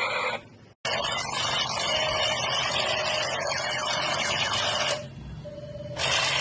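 Electronic toy gun sound effect from a small speaker: a loud, noisy burst that starts about a second in and runs about four seconds. It cuts off sharply, then starts again near the end, as if the trigger were released and pulled again.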